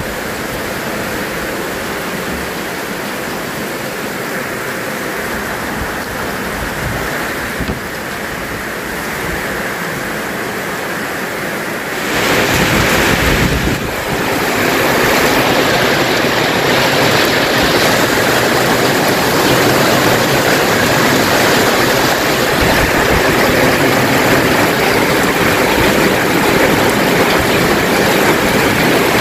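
Heavy rain pouring down, with rainwater splashing into a plastic drum. The steady rush grows louder about twelve seconds in.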